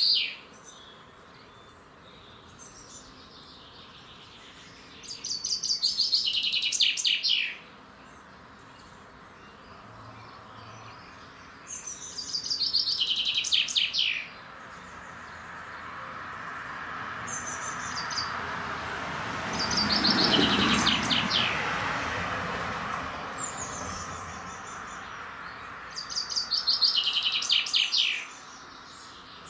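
A songbird singing a short phrase of quick falling notes, about two and a half seconds long, repeated roughly every seven seconds. In the middle a broad rush of noise swells up and fades away again over about ten seconds.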